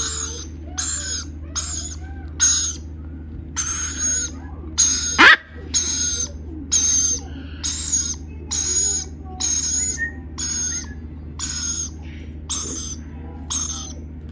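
Lorikeet chicks giving rasping calls over and over, about one and a half a second, typical of nestling parrots begging for food. One brief, loud rising sweep cuts through about five seconds in.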